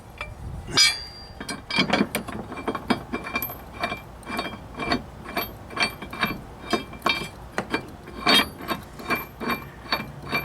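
Ratchet wrench clicking in a steady run of quick strokes, roughly two to three clicks a second, as a mower blade bolt is run down onto its spindle.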